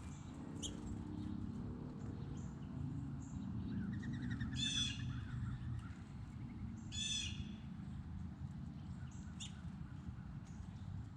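Wild birds calling: two loud, harsh calls about two and a half seconds apart, with scattered short chirps, over a steady low background rumble.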